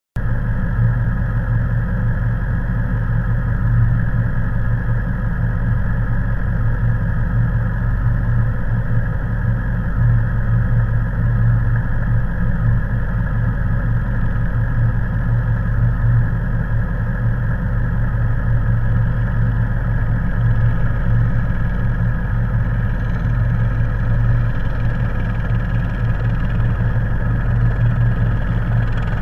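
Car engine idling steadily, heard close up from the vehicle's hood, with a low, even drone that doesn't change.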